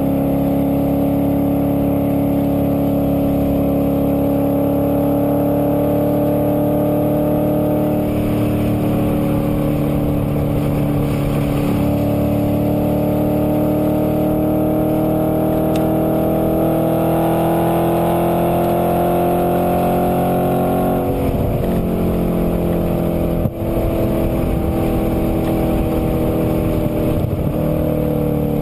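2008 Audi RS4's 4.2-litre V8 with a Milltek exhaust accelerating, heard from inside the cabin. Its pitch climbs slowly and steadily for about twenty seconds, then drops about twenty-one seconds in and falls again near the end.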